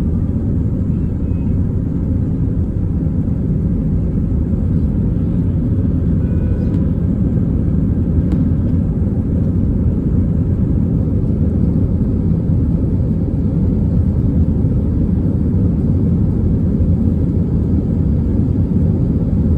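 Airbus A320 airliner's jet engines at takeoff power, a steady low rumble heard from the ground as it departs.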